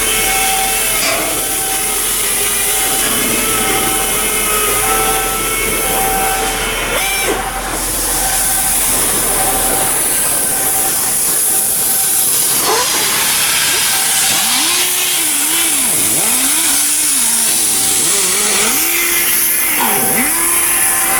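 Shipbuilding work noise: power tools running with a steady hiss, and a high warning beep repeating about once a second. In the second half a motor whirs up and down in pitch several times.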